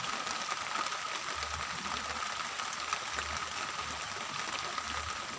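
Steady rain falling, a dense hiss of many small drop ticks, with a thin steady tone running behind it.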